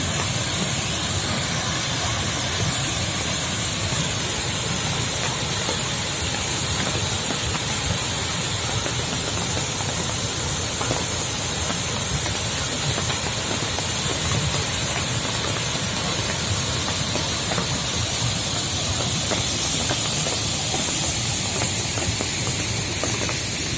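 Waterfall with heavy flow: a steady rushing of falling water that stays even throughout.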